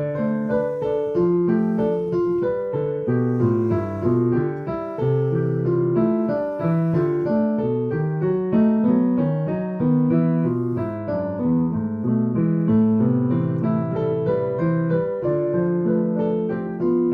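Solo piano improvisation: a continuous flow of overlapping notes and chords in the middle and low range.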